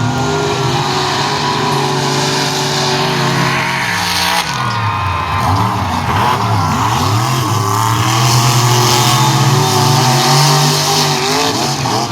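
Monster truck engines racing at full throttle, with the pitch dropping and swinging up and down several times in the middle as the throttle is lifted and blipped, then held high again.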